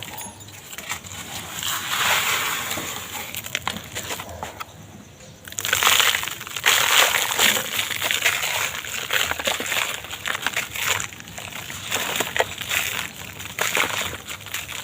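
Dry, dusty block material being crushed and crumbled by hand, giving a gritty crackling full of small snaps. It goes quieter for a moment about a third of the way in, then the crushing comes back louder.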